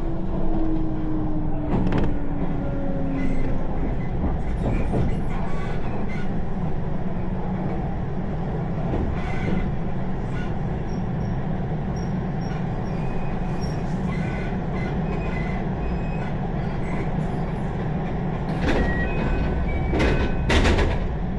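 Steady rumble of a train running, heard from inside the carriage. A whine falls slowly in pitch over the first few seconds, and a few sharp clacks from the wheels and rails come near the end.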